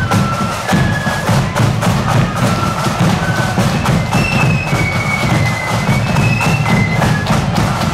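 Marching band playing a tune on the march: a high, stepping melody over rapid, dense drumming with a steady beat.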